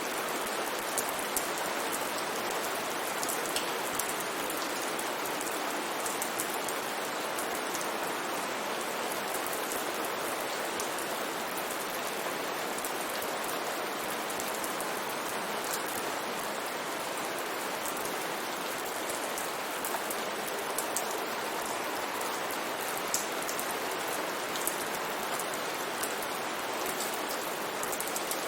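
Steady rain falling, a dense even hiss with the small ticks of individual drops hitting a surface.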